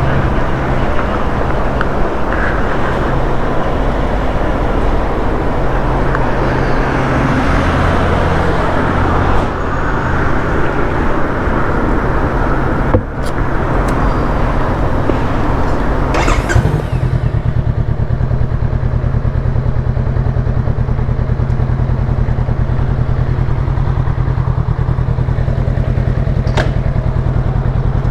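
Honda Rebel 500's parallel-twin engine running through a new aftermarket exhaust, with a loud rushing noise over it that drops away about two-thirds of the way through, leaving the engine idling steadily. A few sharp clicks are heard.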